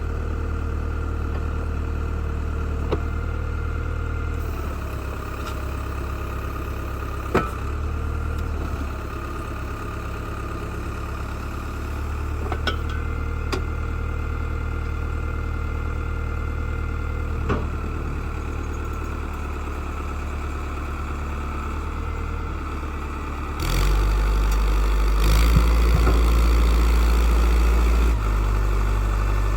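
Old tractor backhoe engine running steadily, with a few sharp knocks along the way. About three quarters of the way through, the engine note changes and gets louder.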